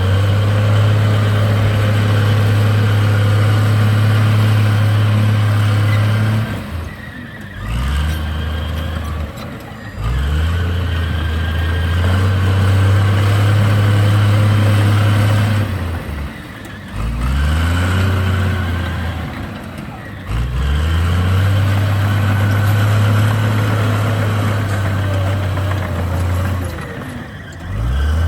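Komatsu D58 crawler bulldozer's diesel engine running at high, steady revs for several seconds at a time. The revs drop and climb back up about four times, a repeating working cycle of pushing, backing off and pushing again.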